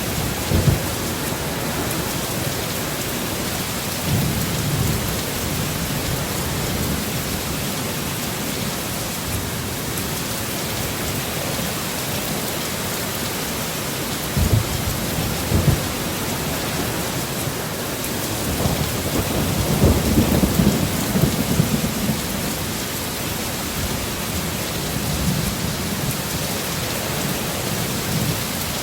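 Heavy rain falling in a steady hiss, with low rolls of thunder rumbling several times. The longest and loudest roll comes about two-thirds of the way through.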